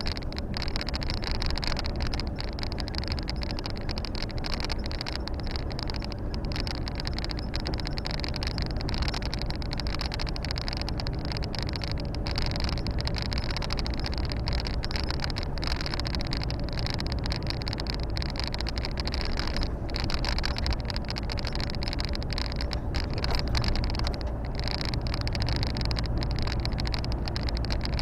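Volvo FH 460 truck's six-cylinder diesel and road noise heard from inside the cab while driving at a steady pace: a low, even rumble with a hiss above it.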